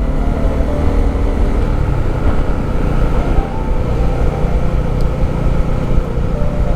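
Motorcycle under way on the road: engine and heavy wind noise on the microphone, with soft piano music carrying on underneath.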